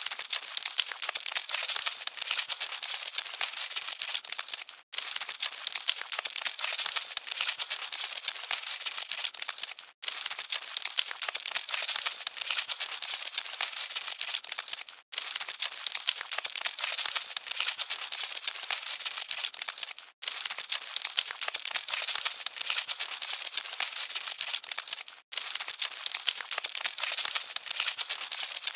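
Cockroaches scuttling: a dense crackle of tiny scratches and clicks, a short loop that repeats about every five seconds with a brief break between repeats.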